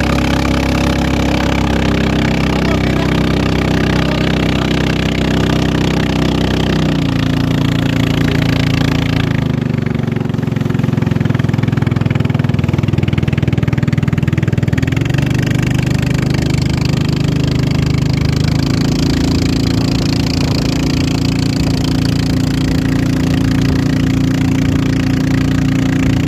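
Racing boat engine running loudly and steadily, its pitch dropping about a quarter of the way in, dipping lower through the middle and rising back up for the last third.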